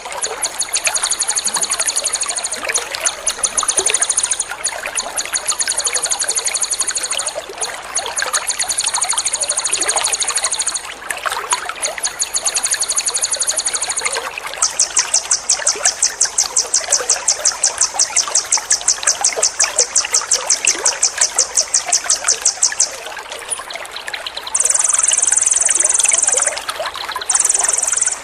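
Trickling water with a songbird's rapid, high-pitched trills laid over it: the 'tembakan' phrases of a bird-training recording. The trills come in bursts of a few seconds, with one long trill of about eight seconds past the middle.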